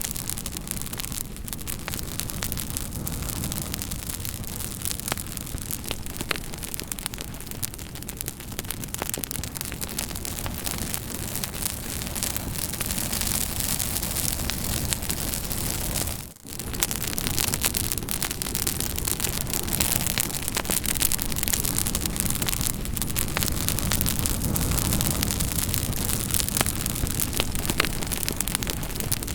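Campfire burning, a steady rush with many sharp crackles and pops from the burning wood. The sound drops out briefly about sixteen seconds in, then carries on.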